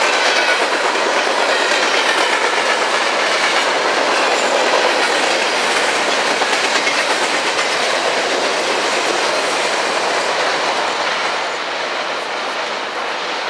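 Empty covered grain hopper cars rolling past close by, their steel wheels running on the rails in a steady, loud rolling noise that eases off a little near the end as the last of the train goes by.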